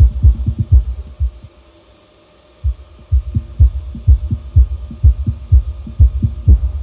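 Deep bass thumps played through a sound system under test, a beat of about two hits a second that stops for a second or so near the middle and then comes back.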